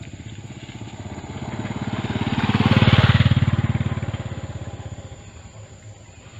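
A motor vehicle passing by, its engine growing louder to a peak about halfway through and then fading away.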